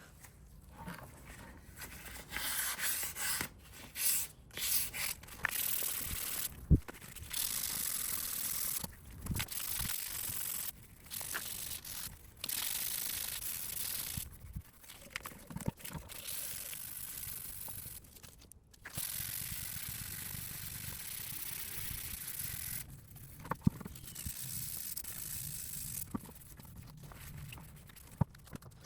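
Hand work on motorcycle parts: stretches of scraping and rubbing, broken by short pauses and a few sharp knocks.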